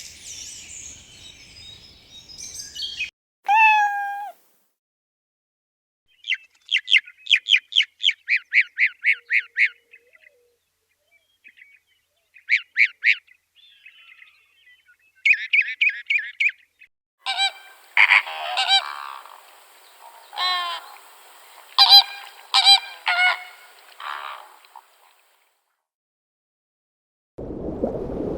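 Farm poultry calling in several short bursts with silent gaps between them: first a quick run of rapid calls, then louder honks over a few seconds, goose-like in character.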